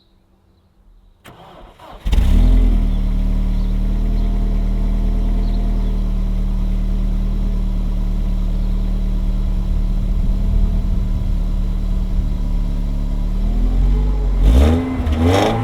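Mercedes SLK 230 (R170) supercharged 2.3-litre four-cylinder started through an aftermarket MG Motorsport rear muffler: the starter cranks briefly, the engine catches about two seconds in and idles steadily, then it is revved twice in quick blips near the end.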